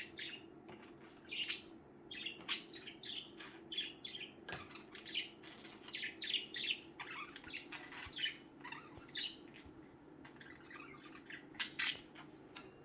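Budgerigars chirping and chattering in a rapid run of short, sharp calls, with louder squawks about 1.5 s, 2.5 s and near the end.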